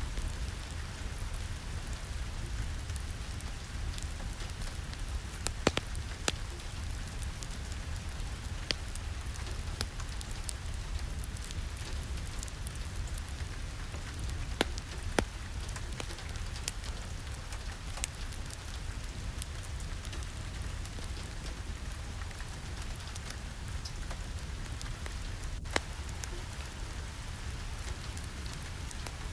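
Steady rain with a low rumble beneath it, and scattered sharp crackles from a wood fire in a fireplace.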